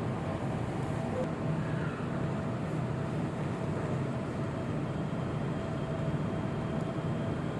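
Steady interior noise inside an MRT Jakarta metro carriage, an even hum with a faint steady tone running through it.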